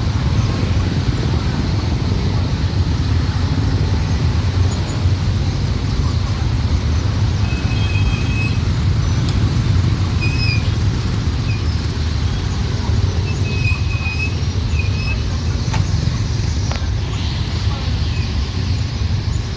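Evening rush-hour street traffic of motorbikes, cars and tuk-tuks, heard as a steady dense rumble of engines and tyres.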